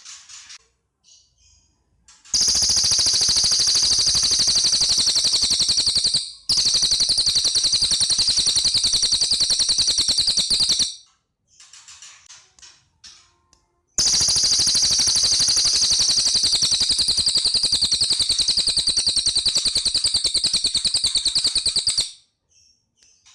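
Cililin bird singing: long, very rapid, high-pitched rattling trills, each held for several seconds, with a brief break about six seconds in and softer short chirps between the trills.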